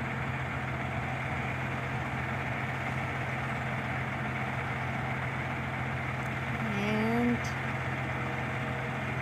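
Shingle delivery truck's engine idling steadily, with a short rising tone about seven seconds in.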